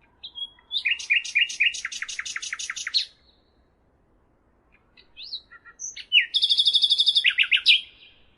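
A songbird singing two phrases a couple of seconds apart, each a few clear whistled notes running into a fast, buzzy trill.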